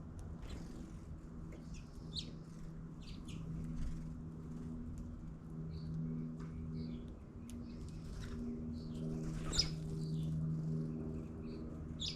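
Small birds chirping in short, scattered calls over a low steady hum, with one brief sharp sound about ten seconds in.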